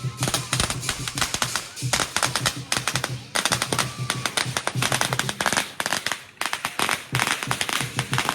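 A string of firecrackers popping in a rapid, dense crackle that stops near the end, over the lion dance drum beat with cymbals and gong.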